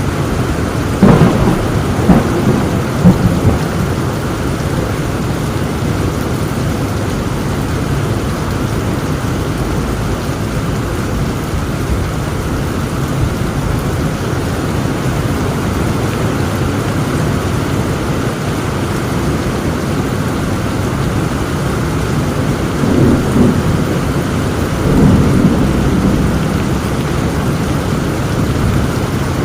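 Heavy rain falling steadily through a thunderstorm. There are a few sharp thunder cracks about a second to three seconds in, and two deeper rolls of thunder near the end.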